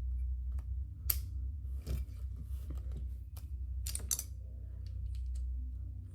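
Plastic Lego pieces clicking as they are handled and snapped together: a handful of sharp clicks, two close together near the middle, over a steady low hum.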